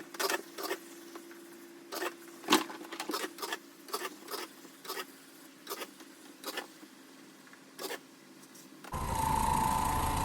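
Scattered sharp clicks and knocks, one or two a second, over a faint steady hum. Near the end a loud carpet-cleaning machine cuts in suddenly, running with a steady whine and a low rumble.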